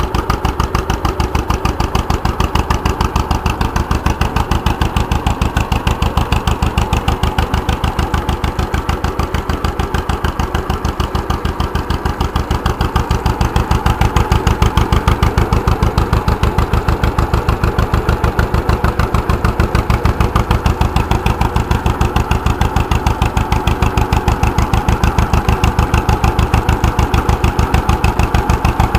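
Homemade tractor's engine running steadily with an even, rapid firing beat on a test run, getting a little louder about halfway through.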